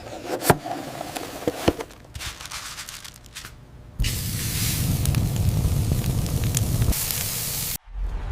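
A few sharp clicks over soft rustling, then about four seconds in a loud, steady hiss like spraying that cuts off suddenly near the end.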